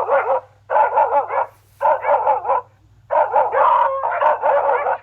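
Dog yapping in quick bursts of short, high barks, four runs of barks with brief pauses between. A steady low hum lies underneath.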